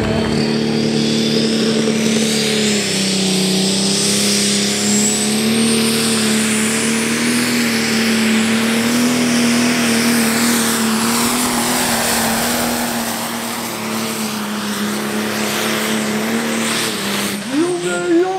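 Pro Stock pulling tractor's single-turbo diesel engine running flat out under load on a pull: a loud steady engine note, with a high turbocharger whistle that climbs over the first several seconds and then holds.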